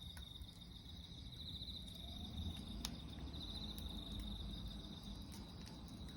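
Garden bonfire burning with a low rumble and a few sharp crackling pops, the clearest about three seconds in, over a steady high-pitched insect trill.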